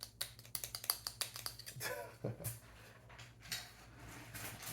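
Rapid light clicks and rustling from plastic parts and packaging being handled, densest in the first second and a half.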